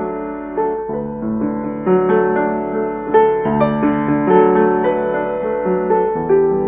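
Keyboard music with a piano sound, playing a melody over held chords that change every half second or so.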